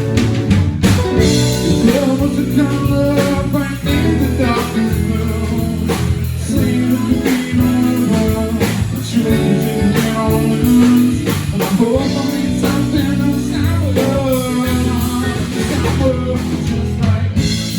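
Blues-rock band playing live, with guitar and drums carrying the song between sung lines.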